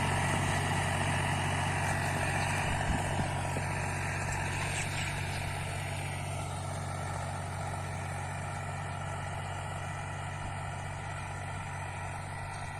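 Mahindra 265 DI tractor's three-cylinder diesel engine running steadily, its sound slowly fading.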